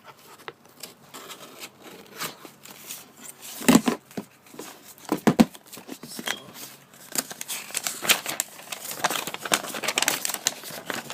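Mail packaging being handled and pulled open: paper and plastic crinkling and tearing, with a couple of louder knocks about four and five seconds in and denser crinkling in the second half.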